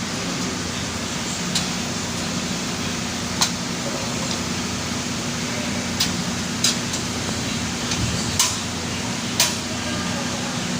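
About six short, sharp clicks and light knocks, irregularly spaced, from computer case parts and hardware being handled, over a steady hiss with a low hum.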